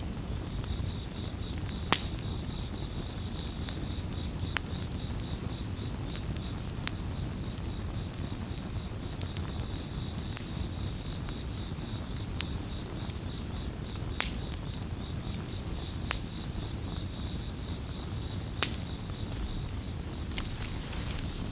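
Campfire crackling over a low rumble, with sharp pops every few seconds. Crickets chirp in a steady pulsing trill that stops near the end.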